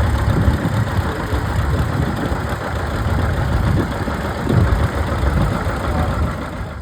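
Large engine idling, a steady low rumble with uneven pulses.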